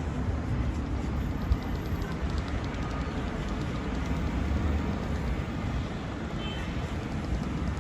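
Steady city traffic rumble mixed with wind buffeting the microphone, with a short knock about a second and a half in.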